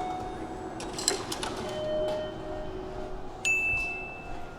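A series of electronic beep and chime tones from station equipment, with a few light clicks about a second in and a sharper, higher beep about three and a half seconds in.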